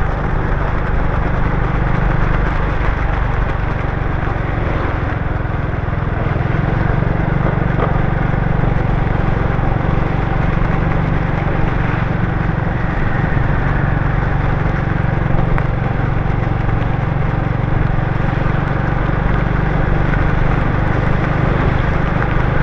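Motorbike engine running at a steady pace while riding on a wet road, with a steady rush of wind and road noise.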